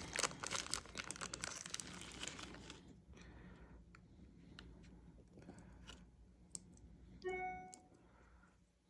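Crinkling of a plastic repair-kit package being handled, fading after about three seconds into scattered light clicks and taps of small parts. About seven seconds in, a brief pitched tone sounds for about half a second.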